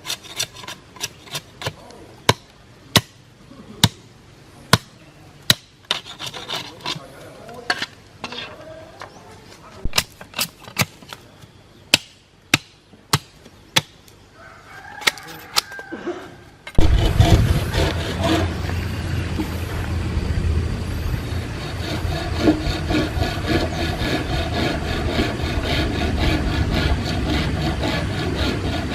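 Woodworking: a run of sharp knocks at uneven spacing, then a power tool starts abruptly on wood and keeps running steadily, much louder than the knocks.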